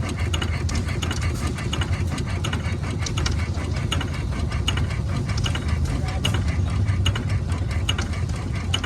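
Gas engine running steadily, with a low drone and a rapid, uneven mechanical clatter of clicks over it.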